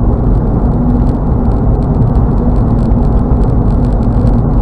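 Steady road and engine noise heard from inside a car cruising at highway speed, with a steady low hum running under it.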